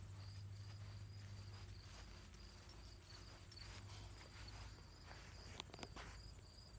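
Faint insect chirping: a regular high chirp repeating two or three times a second, with a few soft clicks near the end.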